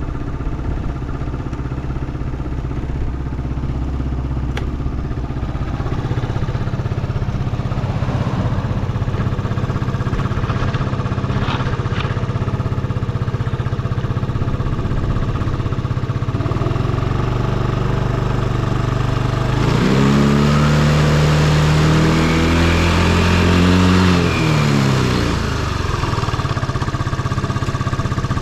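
Yamaha Cygnus X SR scooter's single-cylinder four-stroke engine idling steadily, then revved up about two-thirds of the way in, held high for several seconds, and let fall back to idle. The seller presents it as running with no abnormal noises.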